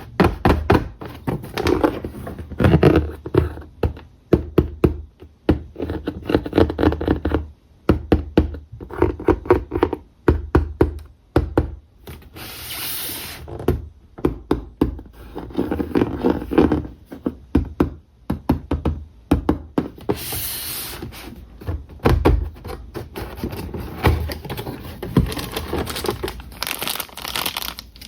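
Toy packaging and plastic toy parts being handled: a steady run of small clicks, taps and knocks, with two short rustling bursts about twelve and twenty seconds in.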